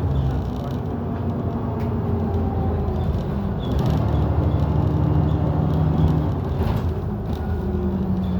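London double-decker bus engine running under way, heard from inside the bus: the steady drone that gives the title its 'hoover' nickname. The engine note steps up in pitch about four seconds in and shifts again near the end, with a few light rattles.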